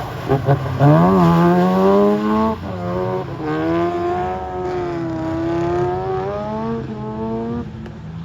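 Car engine held at high revs during a drift, its pitch climbing and dipping repeatedly as the throttle is worked, easing off near the end.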